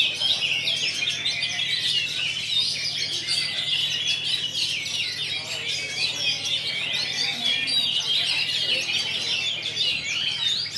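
Many caged oriental magpie-robins (kacer) singing together at a songbird contest, a dense, unbroken chorus of overlapping whistles and chirps. A low steady hum runs underneath.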